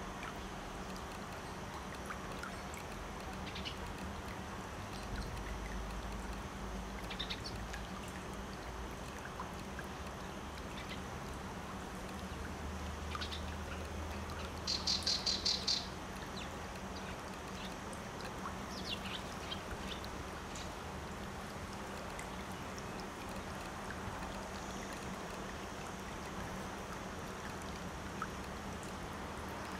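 Outdoor ambience: a steady hiss with scattered short, high bird chirps, and a quick run of about seven chirps about halfway through.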